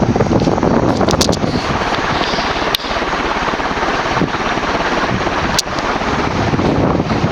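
TAT "UFO" 56-inch industrial ceiling fan running, with a steady rush of air from its blades blowing across the microphone. Two short sharp clicks, about three seconds in and again near six.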